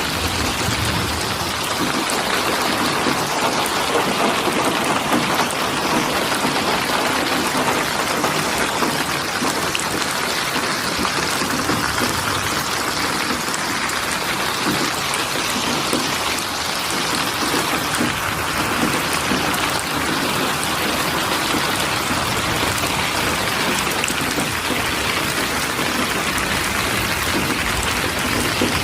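Steady rain falling and pattering on surfaces, an even, unbroken hiss of drops.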